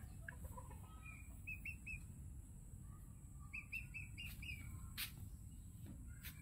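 Faint bird chirping: short high notes in two quick runs of three or four, the first about a second and a half in and the second around four seconds in. A brief tap sounds about five seconds in.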